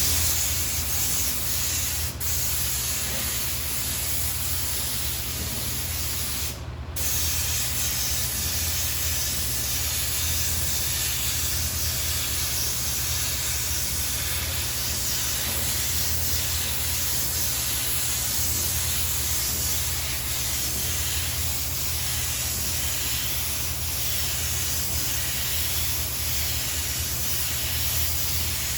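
Air spray gun hissing steadily as it sprays sealer onto a truck fender, the spray cutting out briefly about two seconds in and again for a moment near seven seconds. A steady low hum runs underneath.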